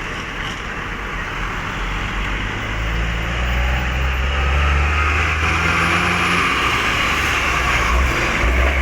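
Road traffic with a truck engine running low, growing louder from about three seconds in, over a steady hiss of tyre and road noise.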